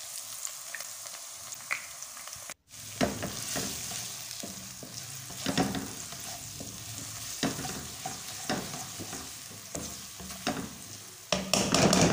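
Crushed ginger and garlic frying in hot oil in a karahi, sizzling steadily while a spatula stirs and scrapes through it, with louder scraping strokes now and then and a louder stretch of stirring near the end.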